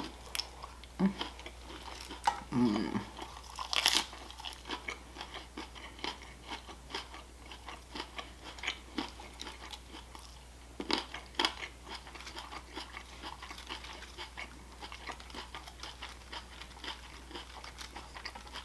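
A person chewing and biting food close to the microphone: a run of small crisp crunches and mouth sounds, with louder crunches about four seconds in and again near eleven seconds.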